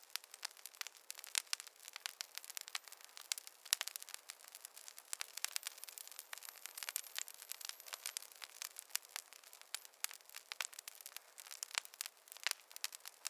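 Campfire wood crackling and popping in a dense, irregular run of sharp snaps over a light hiss. A faint high whistle is heard for a few seconds in the middle.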